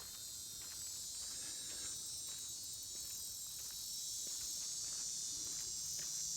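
Steady high-pitched chorus of insects, with faint footsteps on the trail.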